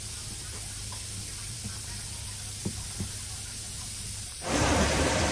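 Steady quiet hiss over a low hum, with a few faint clicks; about four and a half seconds in, a much louder rushing hiss sets in abruptly.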